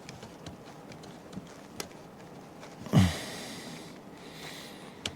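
Scattered light clicks and taps from bolts and engine parts being handled. About three seconds in comes one louder short sound that falls in pitch and trails off in a hiss.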